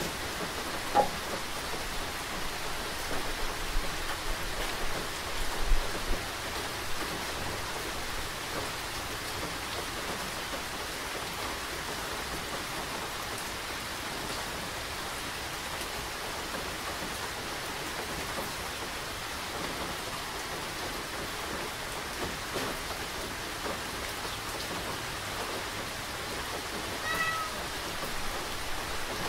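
Steady rain falling, with a few louder taps in the first several seconds. A cat meows once, briefly, near the end.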